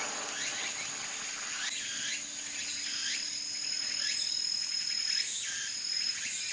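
Insects calling: a steady high-pitched trill with many short falling chirps repeating about twice a second.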